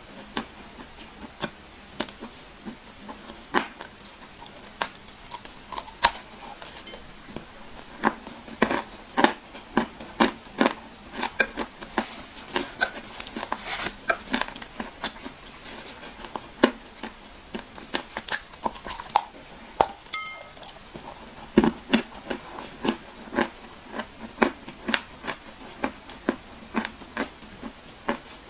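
Dried clay being crunched and crumbled: a steady stream of irregular sharp crackles and snaps, busiest through the middle.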